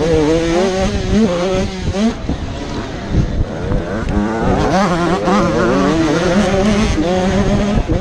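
An 85cc motocross bike's engine revving hard under racing throttle, its pitch climbing and dropping back again and again through gear changes, with wind buffeting the microphone.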